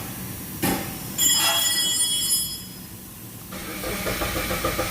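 Suzuki SX4 starter motor cranking the engine from about three and a half seconds in, without the engine catching: the engine is not starting because, by the mechanic's reading, the immobilizer in its ECU cuts spark and fuel. Before that there is a click and a brief high whine.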